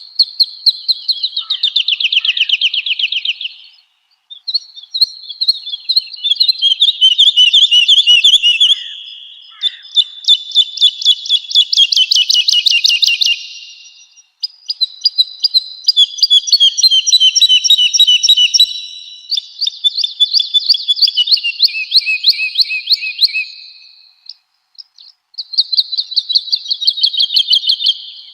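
Woodlark singing: a run of phrases, each a few seconds of rapidly repeated clear, fluty whistled notes, separated by brief pauses.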